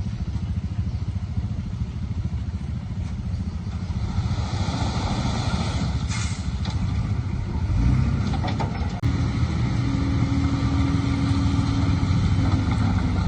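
Diesel engines of heavy earthmoving machinery running steadily, with a rushing noise in the middle. The engines grow louder about eight seconds in, and a steady tone holds for a couple of seconds near the end.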